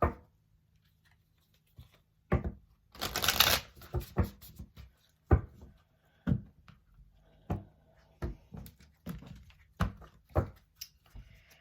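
Oracle cards being shuffled and handled: a short burst of riffling about three seconds in, then a string of separate taps and flicks as cards are worked and drawn.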